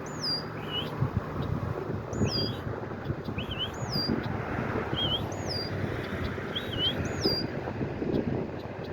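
A bird calling over and over in short whistled chirps, a high falling note alternating with a lower rising one about once a second, over a steady low rumble of outdoor background noise.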